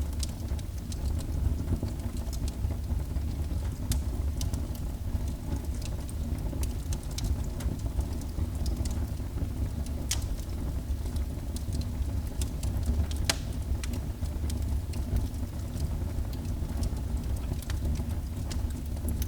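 Fireplace fire burning: a steady low rumble of flame with scattered sharp crackles and pops.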